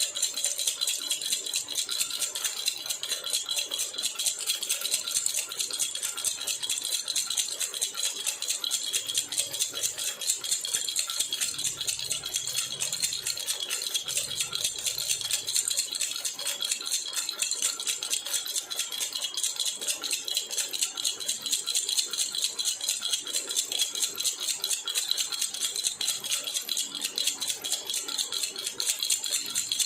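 Baby rattle (jhunjhuna) shaken steadily and rapidly, giving a dense, unbroken, high rattling.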